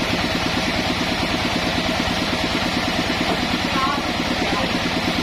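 Engine of a sawmill running steadily at an even speed, with a constant rapid pulsing.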